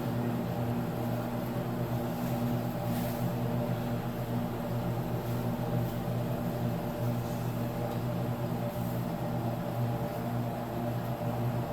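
A steady mechanical hum, like a fan or motor running, with a low drone that does not change; a few faint light ticks now and then.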